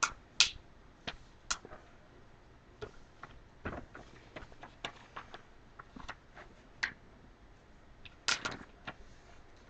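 Sheet of paper being opened out and folded by hand: scattered sharp crackles and taps of the paper, with a quick cluster of them about eight seconds in.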